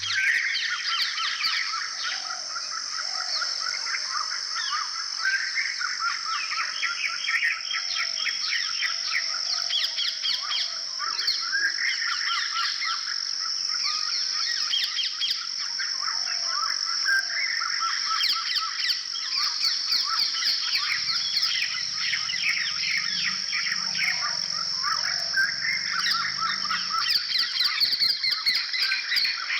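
A dense chorus of birds chirping rapidly and continuously over a steady high-pitched drone.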